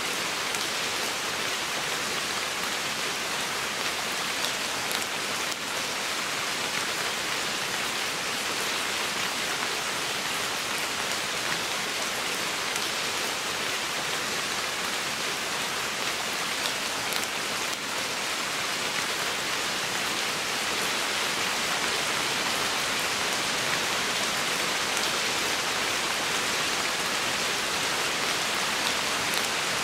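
Steady rain falling on forest foliage, a dense, even hiss with scattered individual drops ticking on leaves. It grows slightly louder in the second half.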